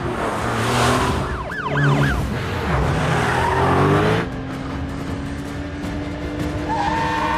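Film car-chase sound mix: a car engine running hard with short tyre squeals over orchestral score. About four seconds in, the engine noise drops away and held notes of the score carry on.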